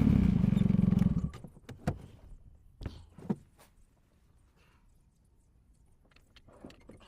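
A motor vehicle's engine running loudly, stopping abruptly a little over a second in. It is followed by a few sharp knocks and then quiet.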